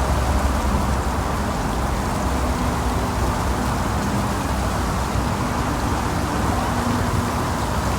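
Steady outdoor noise with a low hum underneath and no distinct events.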